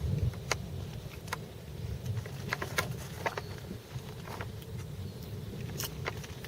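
Gusty wind rumbling on the microphone ahead of a fast-approaching thunderstorm, with scattered sharp clicks through it.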